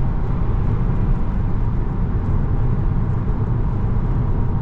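Steady road and engine drone heard inside the cabin of a 2017 Volkswagen Jetta SE cruising at speed, mostly deep tyre and road noise.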